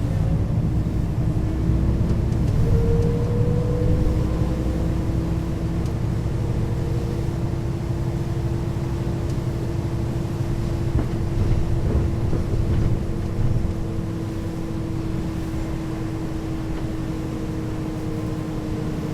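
Mercedes-Benz O 530 G Citaro articulated bus, with its ZF automatic gearbox, driving along: a heavy, steady low engine rumble with a steady whining tone over it. The sound eases a little about two-thirds of the way through.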